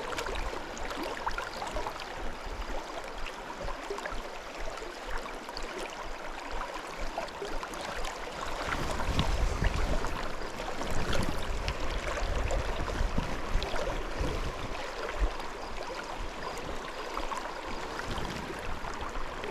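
River current splashing and lapping against a small inflatable fishing raft, a steady watery rush with many small splashes and some low rumbling in the middle.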